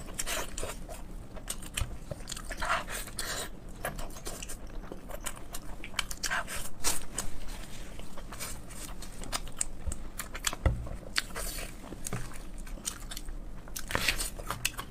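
A person chewing and biting pork close to the microphone, with many irregular short mouth clicks.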